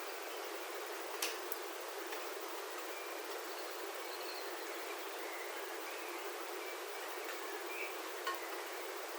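Steady rain pattering on a roof, heard from inside, with a few sharp taps of single heavier drops and faint short bird chirps.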